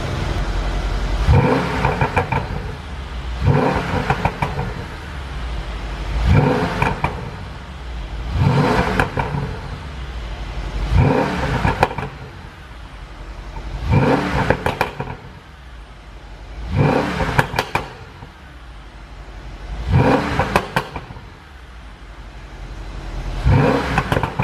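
2014 Mercedes-Benz S63 AMG 4MATIC's twin-turbo V8 revved about nine times, every two to three seconds, each rev falling back with popping and crackling from the exhaust: a pop-and-bang tune.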